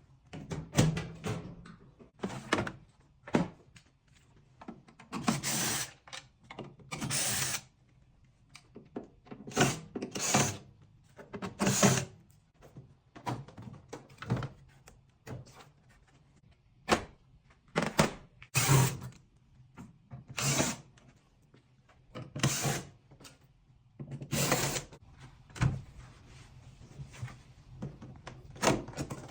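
Irregular knocks, clunks and scrapes of hands and tools working on a washing machine under repair, about twenty separate strokes with short pauses between them.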